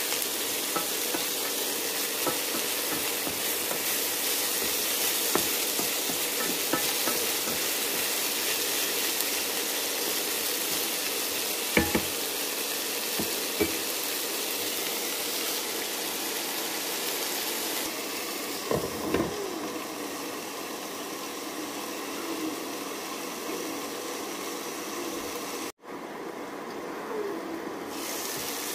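Tomatoes, onions and chillies sizzling in a frying pan while being stirred with a wooden spoon, with a few short knocks of the spoon against the pan. The sizzle cuts out briefly near the end.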